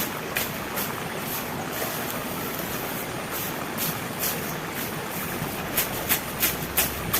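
Heavy rain falling steadily, with irregular sharp taps of drops striking close by that come thicker near the end.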